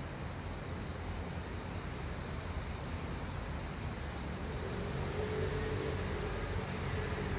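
Steady outdoor background noise with a low rumble and a constant high hiss, and a faint engine hum coming in about halfway through.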